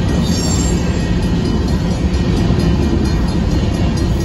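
Covered hopper cars of a grain train rolling steadily past a grade crossing: a continuous rumble of steel wheels on the rails.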